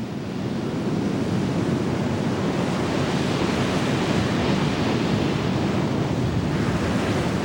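Ocean waves and wind: a steady rushing of sea and air that builds a little in the first second, then holds.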